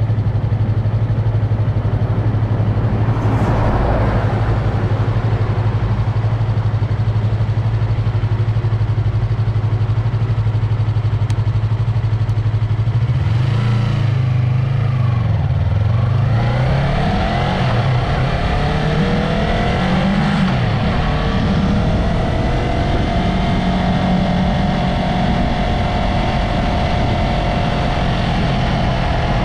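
Yamaha MT-03's 321 cc parallel-twin engine running at a steady low note for roughly the first half, then revving and pulling away, its pitch rising and falling through the gears.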